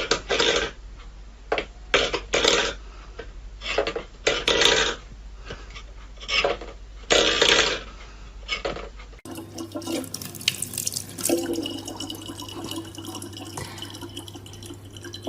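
Water splashing in irregular bursts. After a sudden cut about nine seconds in, water runs steadily, as from a tap.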